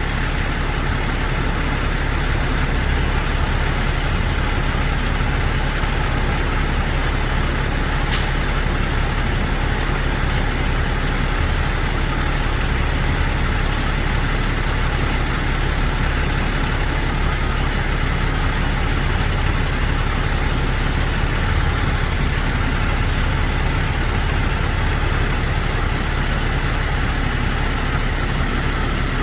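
Heavy diesel truck engine idling steadily, with one short click about eight seconds in.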